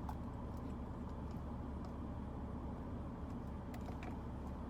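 Steady low rumble of a car heard from inside the cabin, with a few faint clicks near the end.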